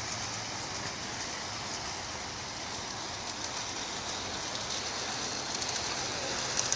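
Large-scale garden-railway locomotive running on outdoor track: a steady whir of its electric motor and wheels rolling on the rails, with a few faint clicks near the end. There is no chuffing, as its sound unit has no battery.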